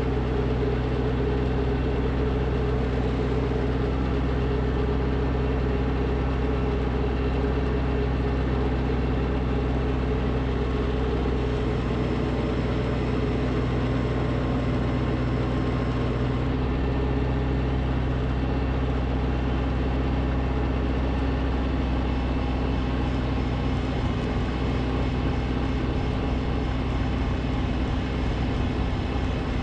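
Snowblower engine running steadily under load.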